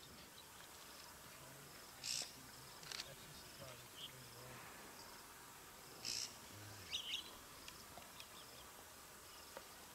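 Crickets chirping faintly in short, evenly repeated trills. There are brief louder sounds about two and six seconds in, and a short call near seven seconds.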